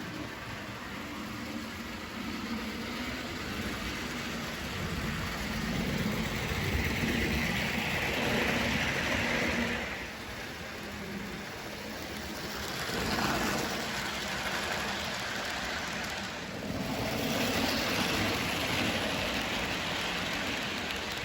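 HO-scale model train running on sectional Kato track, its motor and wheels giving a steady hiss and rumble that swells and fades three times as the train passes close by.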